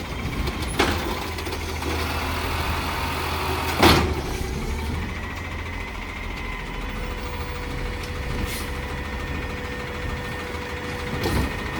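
Garbage truck engine idling steadily, with a sharp metallic bang about four seconds in and a lighter knock before it. A steady thin whine runs from about five seconds in until near the end.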